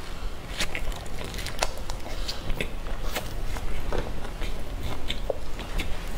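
Close-miked biting and chewing of food, with scattered irregular sharp crunches and mouth clicks.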